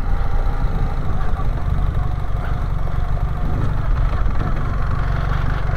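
BMW R 1300GS motorcycle's boxer-twin engine running steadily at low revs, a steady low rumble.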